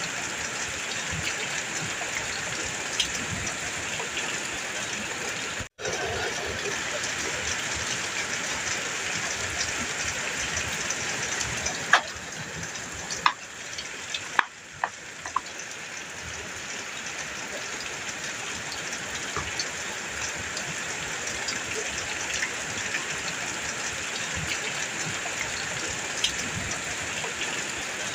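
Heavy rain falling steadily on a metal roof, an even hiss of drops. It cuts out for an instant about six seconds in, and a few sharp taps of drops stand out about halfway through.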